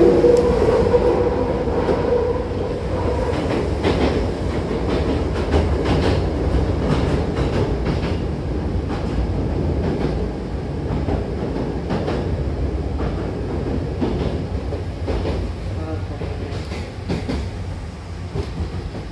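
Hankyu commuter train running, heard from inside the car: a steady rumble with wheels clicking over rail joints. A motor hum is heard for the first couple of seconds and then fades, and the running noise gets quieter near the end.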